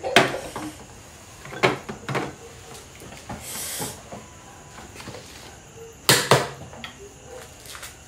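A balut egg's shell being tapped and cracked by hand: a few sharp clicks, two of them close together near the end, with a short hiss in the middle.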